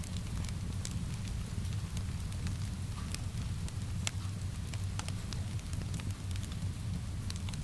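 Wood fire crackling, with irregular sharp pops and snaps over a steady low rumble, mixed with a soft even hiss of rain.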